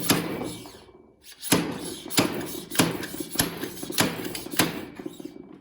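A fork seal driver used as a slide hammer, knocking a dirt bike fork oil seal down into the outer fork tube. It gives a series of sharp metal knocks: one, a pause of about a second, then about six more at an even pace of a little under two a second. The seal is being driven past the retaining-clip groove.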